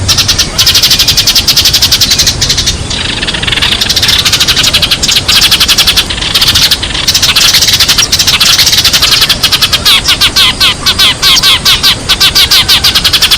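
Sparrows chirping rapidly and continuously, a dense chatter of many short chirps a second, played as a lure call for trapping sparrows.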